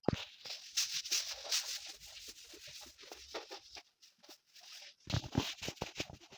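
Rustling and scattered small clicks of household things being handled, with a run of louder knocks near the end.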